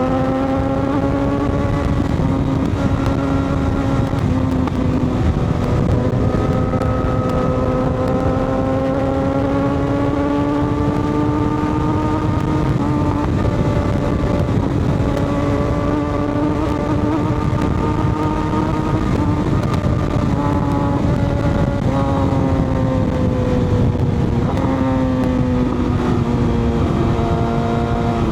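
Motorcycle engine running under way at a fairly steady speed, its note drifting slowly and stepping up or down in pitch a few times, over a steady rush of wind and road noise.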